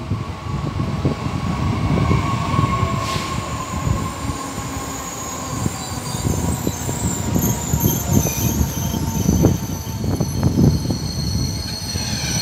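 SNCF TER regional diesel-type multiple unit running past close by as it pulls into a station platform: a steady low rumble of wheels on rail with repeated knocks. High-pitched wheel and brake squeal builds through the second half as the train slows.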